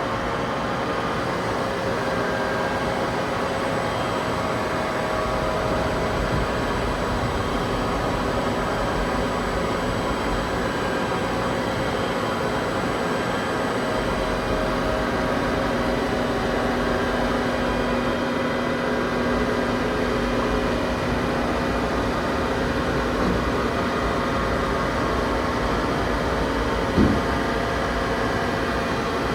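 Industrial machinery running steadily: a continuous mechanical hum with several steady whining tones. A lower tone joins about halfway through and drops out a few seconds before the end, and a single sharp click comes near the end.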